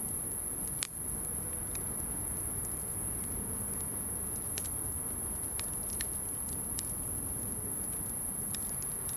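Wood fire burning in a steel fire pit: irregular small crackles and pops over a steady low rushing noise.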